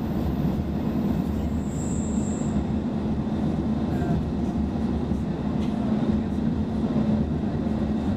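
Cabin running noise of a Roslagsbanan X10p narrow-gauge electric multiple unit travelling at speed: a steady low rumble of wheels on rails and the running gear.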